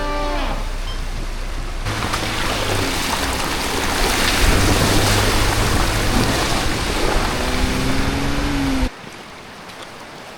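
Loud rushing water, such as a creek or waterfall, with background music underneath. It cuts off suddenly about nine seconds in, leaving a much quieter stretch.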